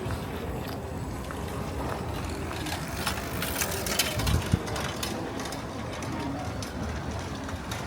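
City street ambience with a steady low traffic rumble and a brief run of quick mechanical clicks about three seconds in, followed by two low thumps.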